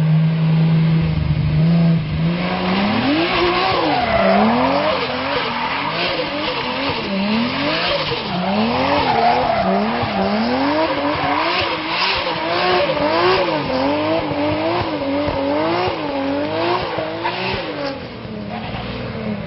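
A car engine holds a steady note, then from about two and a half seconds in is revved up and down about once a second. Over this comes a high squealing hiss of the tyres.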